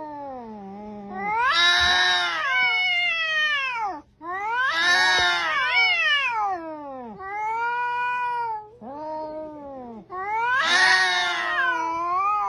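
A cat yowling: about half a dozen long, drawn-out calls in a row, each rising and then falling in pitch.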